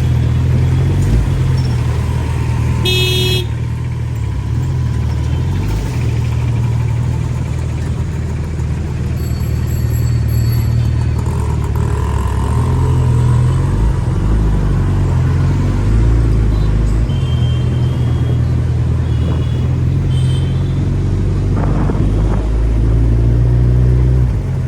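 Suzuki Hayabusa's inline-four engine running at steady low revs while riding in traffic. A short vehicle horn honk comes about three seconds in, and a few brief horn beeps come later.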